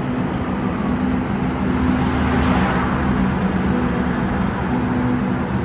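Los Angeles Metro rail train running, a steady rumble with a constant low motor hum and a brief swell of hiss about halfway through.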